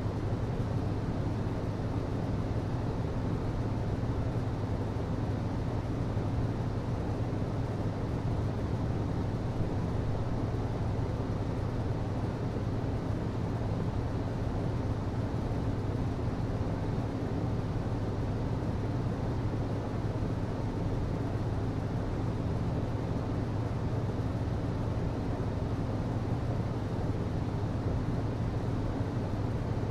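HVAC system running: a steady low hum with an even rush of air over it, unchanging throughout.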